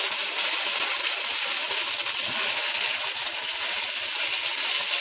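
Beef searing in hot oil on high heat, a steady sizzle as it starts to brown.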